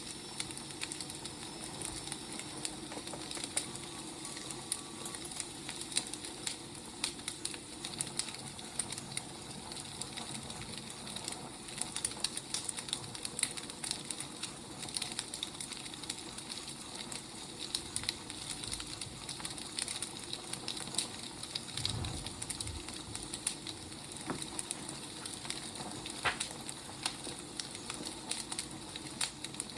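Burning firewood crackling: a steady hiss with frequent small pops and snaps.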